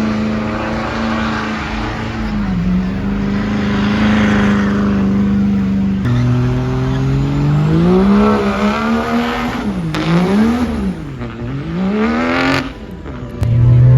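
Truck engine held at high revs, then, after an abrupt change about six seconds in, revved up and down in several quick swoops before cutting off near the end.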